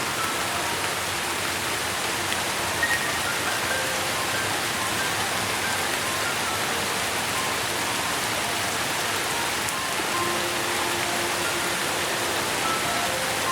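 Steady rain, an even hiss with no let-up, with scattered short soft tones sounding over it now and then.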